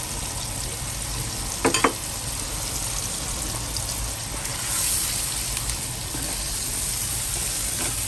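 Blended masala paste frying in hot oil in a pan, sizzling steadily as curry powder is added and stirred in with a wooden spatula. A couple of sharp knocks come about a second and a half in, and the sizzle grows briefly louder around the middle.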